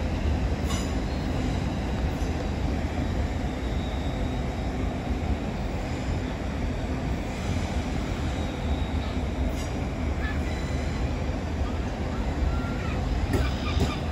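GWR Class 800 intercity train rolling slowly past on curved track: a steady, even low rumble of the train, with faint high wheel squeal now and then.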